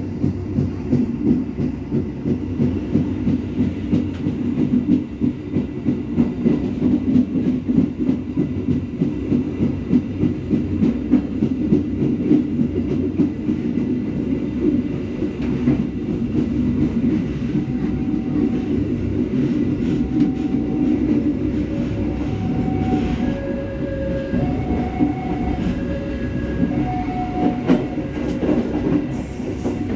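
Passenger train carriage running on the rails, a steady rumble with a rhythmic clatter of the wheels. From about eighteen seconds in, a level-crossing warning signal sounds over it in alternating two-note chimes as the train nears the crossing.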